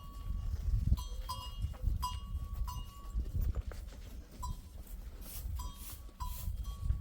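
Small bells on a goat herd clinking and ringing irregularly as the animals move, over a low rumbling background.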